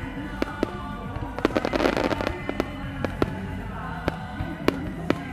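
Fireworks going off in a string of sharp bangs, with a dense crackling burst about two seconds in, over background music.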